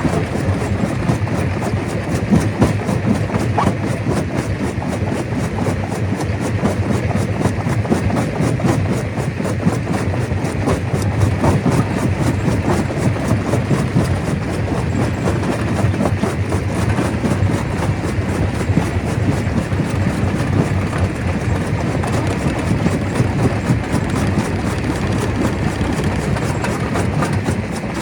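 Stone crusher running under load, rocks clattering and cracking continuously as they are broken, over a steady low machine drone.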